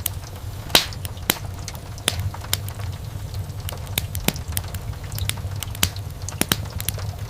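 Wood fire in a fireplace crackling and popping, with irregular sharp pops, the loudest about a second in, over a steady low rumble of the burning.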